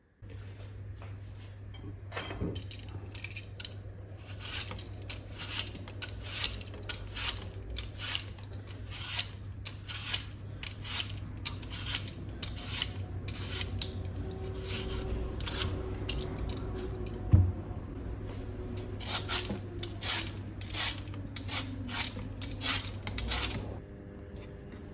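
A long run of short, crisp cutting strokes, about two a second, over a steady low hum, with one louder knock about seventeen seconds in.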